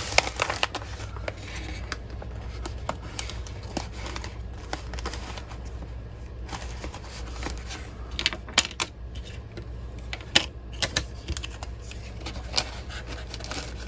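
Small plastic baggies and kit pieces from a diamond-painting kit being handled and packed back into a box: irregular light clicks and rattles with some rustling.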